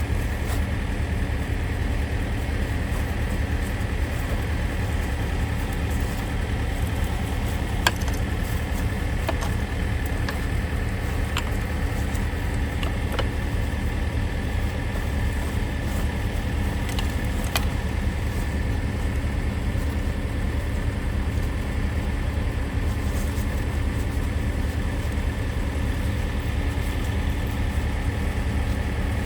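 Logging truck's diesel engine idling steadily, with a few light clicks in the middle stretch.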